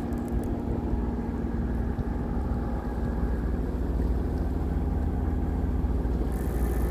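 An engine running steadily: a constant low rumble with a steady hum.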